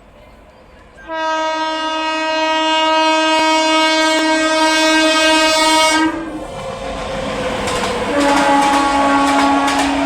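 Electric locomotive's horn sounding one long blast of about five seconds, then a shorter second blast near the end, over the noise and clickety-clack of a train's wheels running on the rails.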